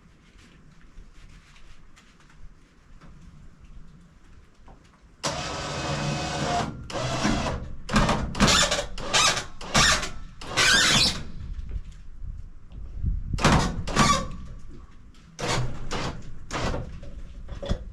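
An engine starts about five seconds in and keeps running, rising and falling in loud surges several times.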